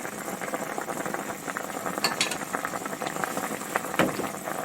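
Pot of fish-cake soup broth bubbling on the stove, with a few sharp utensil clinks about two seconds in and again near the end.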